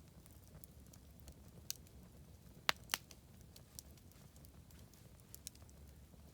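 Wood bonfire crackling, with scattered sharp pops and two louder pops close together near the middle, over a low steady rumble.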